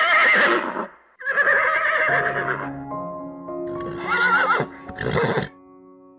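A horse whinnying twice in quick wavering calls, followed by music with held notes, with another short call about two-thirds of the way through.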